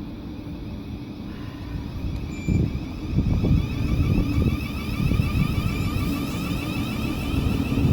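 A train running through the station: a low rumble that grows louder about two and a half seconds in, with a whine above it from about three seconds.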